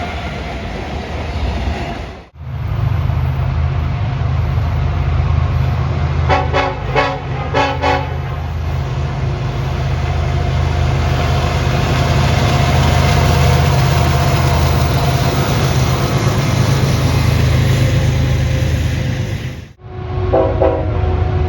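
Diesel freight locomotives passing with a steady, loud engine drone. The train horn sounds three short blasts about six seconds in and sounds again near the end, and the sound breaks off sharply twice.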